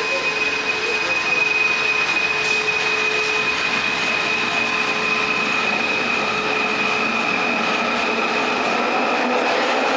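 A Kuala Lumpur metro train running: a steady rushing rumble with a high whine held throughout and other whining tones that shift partway through.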